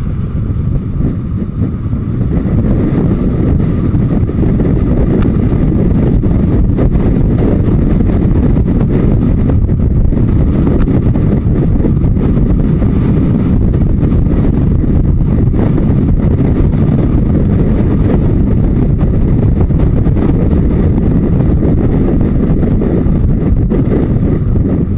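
Wind noise rushing over the microphone of a Yamaha Diversion 900 motorcycle at road speed, with the bike's engine running underneath. The rush builds over the first couple of seconds, then holds steady.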